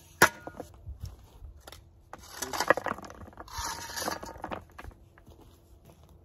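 A sharp metallic clank just after the start, then about two seconds of rattling and scraping in the middle.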